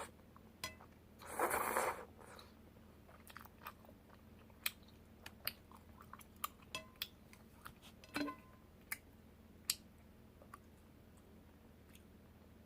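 Close-up eating sounds of someone chewing spicy soup tteokbokki: soft chewing with many short sharp mouth clicks, and one louder noisy burst about a second and a half in.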